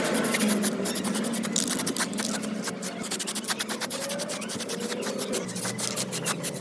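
Scraping and scratching, a dense run of short rasping strokes.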